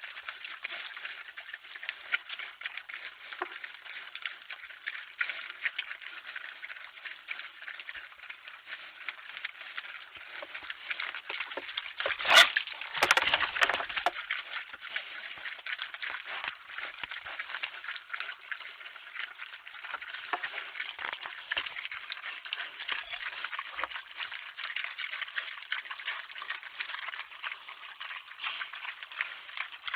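Dense, steady pattering and ticking, with one sharp, loud crack about twelve seconds in and a louder scuffling stretch just after it.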